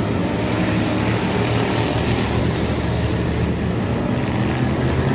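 A field of race cars' engines running together at speed, a loud, steady, overlapping engine drone.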